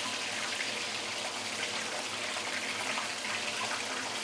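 Whole black pomfret deep-frying in hot oil in a stainless steel wok: a steady sizzle.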